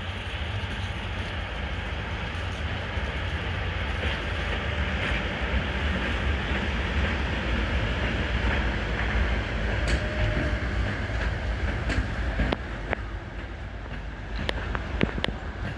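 Freight train passing: a steady rumble of rolling wagons, with sharp clicks and knocks from the wheels coming thicker in the last few seconds.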